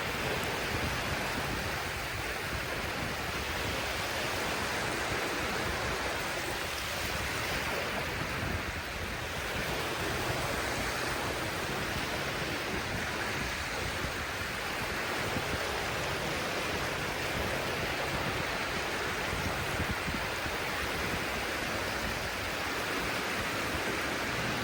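Steady rushing of sea surf on the shore.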